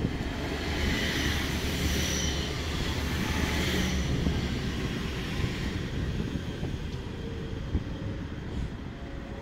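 Deutsche Bahn double-deck regional train moving slowly along the platform and gathering speed as it pulls out: a steady low rumble with a hiss that swells over the first few seconds, and a single sharp click near the end.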